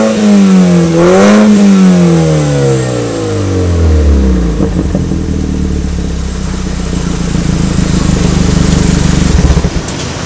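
BMW F30 320i's turbocharged four-cylinder running through an Eisenmann aftermarket exhaust: one more rev blip about a second in, then the revs fall away and it settles into a steady idle from about four seconds in.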